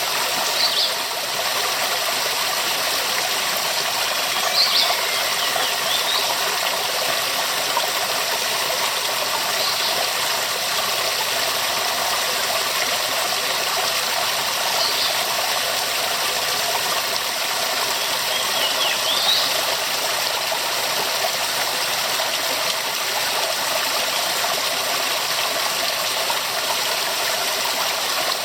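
Waterfall rushing steadily, an even roar of falling water that holds at one level. A few short high chirps, about five, come through it at intervals of roughly five seconds.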